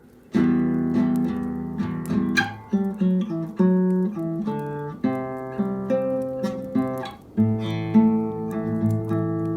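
Nylon-string classical guitar played slowly: a chord struck about a third of a second in, then single notes and fifths picked one at a time and left ringing, with another full chord struck about seven and a half seconds in.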